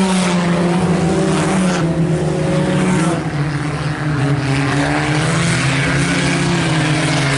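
IMCA Sport Compact race cars' four-cylinder engines running hard in a dirt-track race, engine pitch dipping about three seconds in and again later as drivers lift for the turns.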